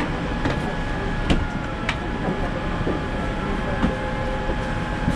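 Airliner cabin ambience before departure: the steady hum of ventilation and machinery, with a few sharp clicks and knocks, the clearest two about half a second apart early on.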